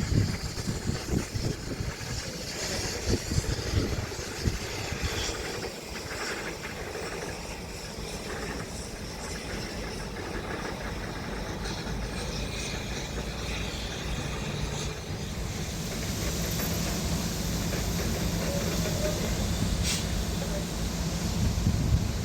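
A heavy diesel engine running steadily, with wind buffeting the microphone in the first few seconds; a steady low engine hum becomes clearer about two-thirds of the way through.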